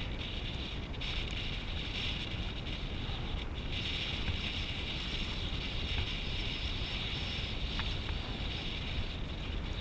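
Steady rushing noise of wind buffeting a camera microphone while moving at speed, with a low rumble and a few faint ticks.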